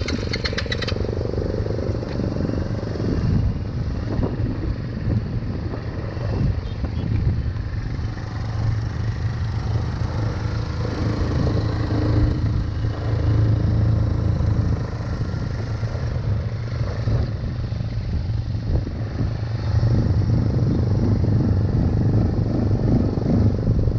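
ATV engine running steadily while the quad is ridden, a low drone with rattling and rumble from the machine over the ground.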